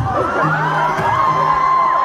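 Live pop band playing, with the audience cheering and whooping over the music; a high cry rises about a second in and is held.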